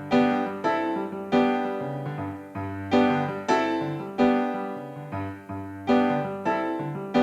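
Electronic keyboard with a piano sound playing slow chords over bass notes, each struck and left to ring and fade before the next, about one a second.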